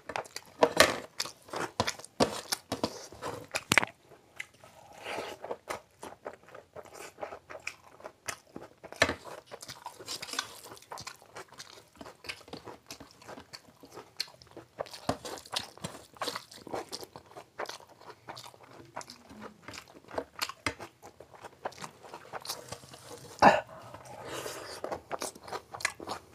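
Close-miked eating: chewing and crunching mouthfuls of Manchurian and fried rice, with wet mouth clicks and fingers mixing food on a steel plate. There is one louder sharp crack near the end.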